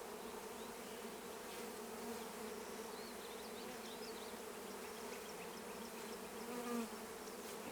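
Honey bees buzzing steadily around an open hive, the hum of many bees flying close by.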